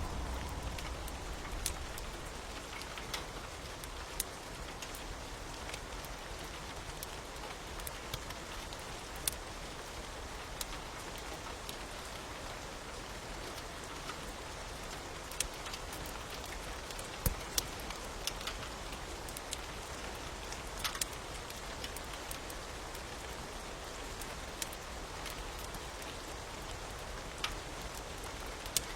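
Steady hiss of rain with scattered sharp pops and crackles from a fire, a few louder than the rest.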